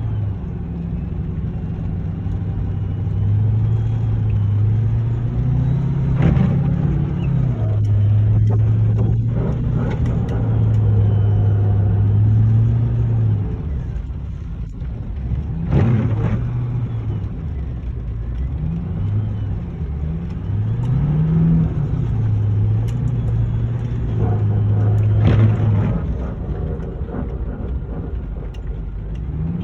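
Truck engine running, its low note rising and falling as the revs change. Three short sharp noises break in, about a fifth of the way in, halfway through, and near the end.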